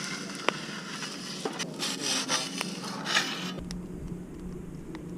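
Rough scraping and rubbing with a couple of sharp clicks, loudest about two and three seconds in, then a quieter steady low hum.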